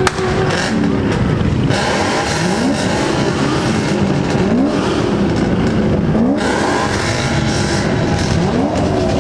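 Car engines revving and accelerating, their pitch rising again and again with shifts in between, over a dense wash of traffic noise. A single sharp knock right at the start.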